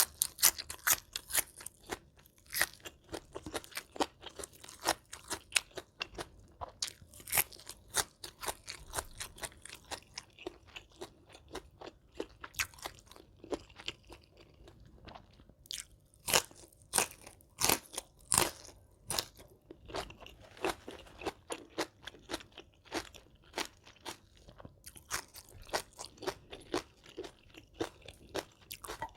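A person chewing crunchy food, with a rapid run of crisp crunches and a brief lull about halfway through.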